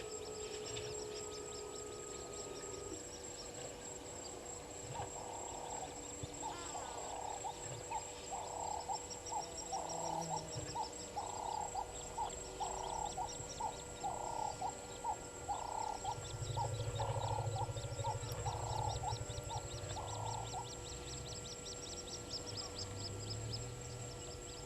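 Bush ambience at a waterhole: an animal calls over and over, about once a second for some fifteen seconds, over fast high-pitched chirping and a steady high insect-like tone. A low drone comes in during the last third.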